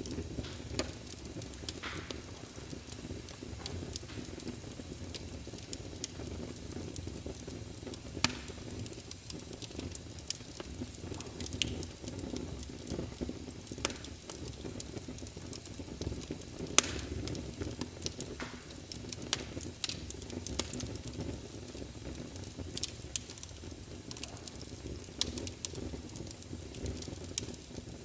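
Wood fire burning in a fireplace: a steady low rumble of flames with frequent irregular crackles and a few sharper, louder pops.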